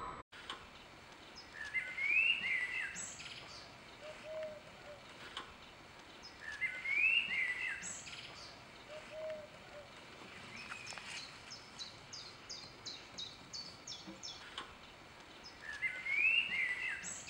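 Outdoor birdsong: a whistled phrase repeated three times, about five seconds apart, each followed by a short low note, with a quick run of high chirps about midway.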